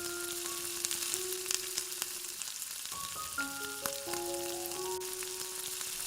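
Curry frying in hot oil in a pan: a steady sizzle with small sharp crackles. A soft melody of held notes plays over it.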